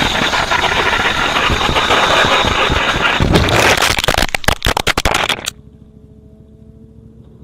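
Loud wind and road noise of a moving vehicle on the camera's microphone, broken by a quick run of sharp knocks about four to five seconds in. It then cuts off suddenly to a quieter vehicle engine idling with a steady hum.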